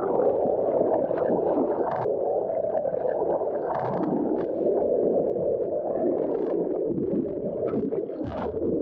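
Underwater sound of dolphins: a muffled rush of water across the microphone, with many short clicks and squeaks.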